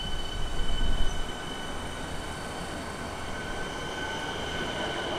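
Melbourne metropolitan electric multiple-unit train running slowly past the platform, its wheels rumbling on the track under a steady high-pitched squeal. A few louder knocks come in the first second.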